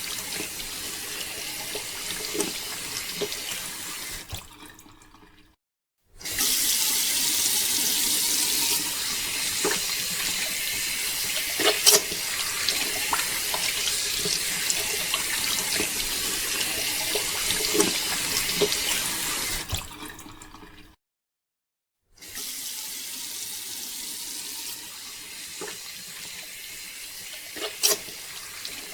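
Water pouring steadily from a mini water pump's outlet, with a few sharp knocks or splashes over it. It cuts out to silence twice, briefly, and comes back louder after the first break.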